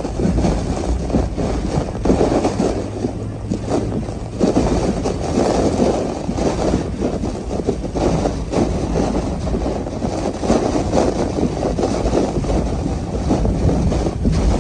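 Steady rushing wind and road noise from a car driving through hurricane weather, rising and falling with the gusts.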